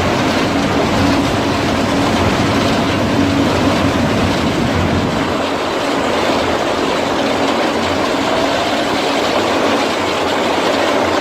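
Wood chipper running loudly and steadily: a continuous grinding noise over a steady machine hum, with no breaks.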